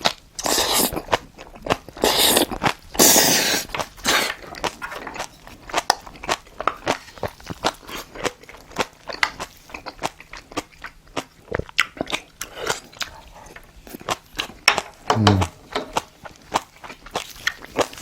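Close-up eating sounds of spicy braised monkfish (agujjim): steady chewing with many small wet mouth clicks and crunches. A few loud hissing bursts come in the first four seconds, and a short falling hum about fifteen seconds in.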